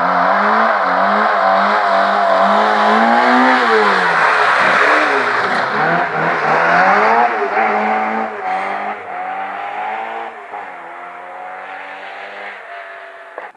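Rally car engine at high revs, passing at speed: the pitch drops and climbs again several times as it lifts and changes gear, loud at first and then fading as it moves away, cutting off abruptly at the end.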